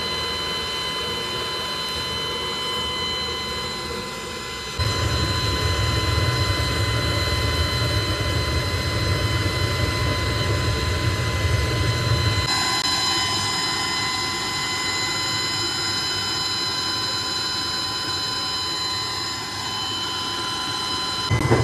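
Factory machinery running steadily, with a constant high-pitched whine. A loud low hum comes in sharply about five seconds in and drops out just as sharply about halfway through.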